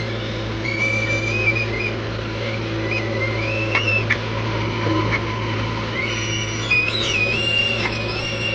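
JCB 3DX backhoe loader's diesel engine running steadily under working load, with a high, wavering whine that rises and falls as the machine works, and a few short metallic clanks.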